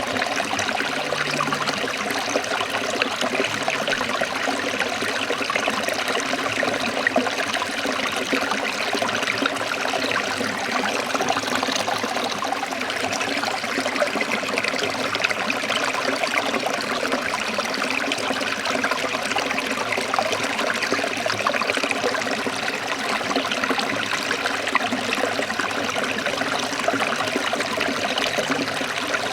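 Forest stream trickling and splashing steadily, an even rush of running water with no breaks.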